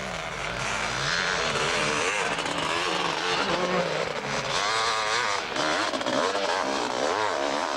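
Motocross bike engines running, their pitch rising and falling again and again as they rev up and back off. The sound gets louder about a second in.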